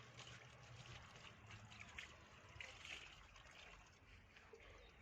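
Near silence: faint room tone with a low hum and a few small ticks.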